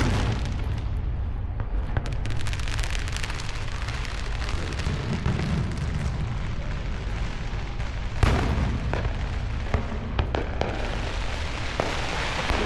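Fireworks going off in a rapid barrage: a continuous rumble of booms with crackling, and one louder bang about eight seconds in.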